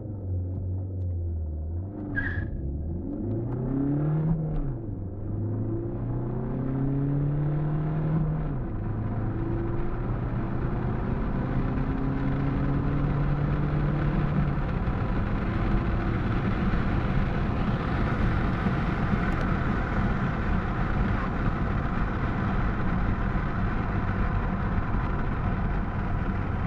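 Alfa Romeo Giulietta's 2.0 JTDm-2 four-cylinder turbodiesel accelerating hard through the gears, its note rising and dropping back at each of two gear changes in the first nine seconds. The engine then settles into a steadier note as road and wind noise build up and take over with rising speed, heard from inside the cabin.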